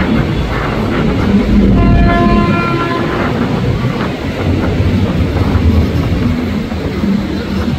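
KRL Commuter Line electric commuter train sounding a short horn blast about two seconds in as it approaches, over the steady low rumble of the train running on the track.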